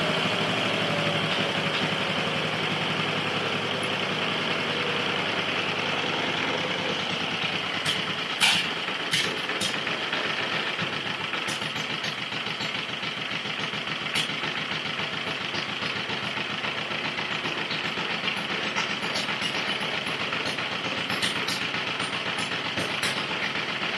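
Vintage Petter single-cylinder spark-ignition stationary engine running steadily at an even beat, its magneto and carburettor freshly set up. A few sharp clicks come through about a third of the way in.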